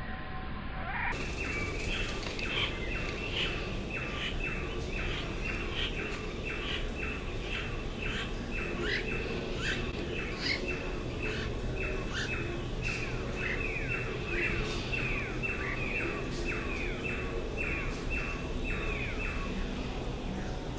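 A bird calling a long, steady series of short notes, each sliding down in pitch, about two or three a second, starting about a second in.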